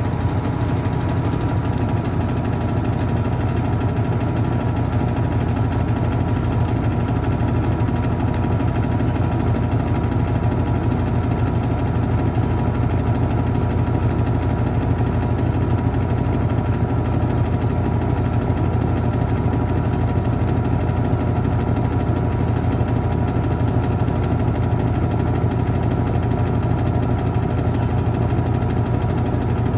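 Brastemp Clean washing machine running with a steady, unchanging mechanical hum.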